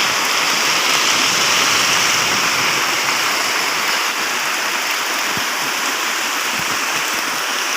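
Rain pouring down: a loud, steady hiss of falling water, with a couple of faint drop ticks in the second half.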